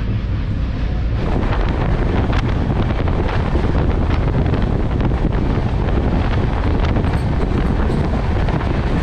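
Indian Railways express train running at about 108 km/h: a steady rush of wheel and track noise with wind buffeting the microphone. The noise gets louder about a second in.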